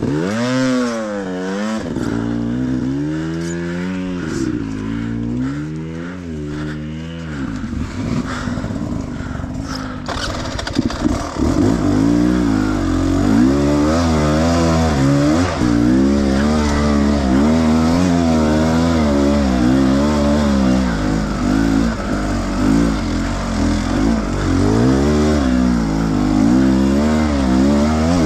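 Enduro motorcycle engine revved in repeated blips, the pitch rising and falling over and over, then held at higher revs with constant throttle changes from about eleven seconds in, with a few sharp knocks just before.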